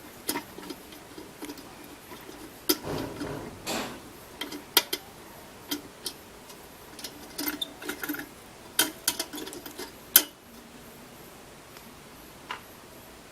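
Irregular clicks and taps of a screwdriver and small metal parts as a rice cooker's switch is worked loose; the tapping stops about ten seconds in.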